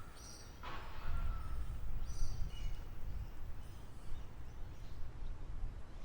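Wild birds chirping: a few short, high chirps and a thin whistled note, over a steady low rumbling background noise that is louder than the birds.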